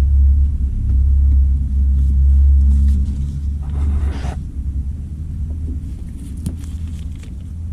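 Metal lathe running with a steady low rumble, with a short scraping sound about four seconds in and a few light clicks near the end.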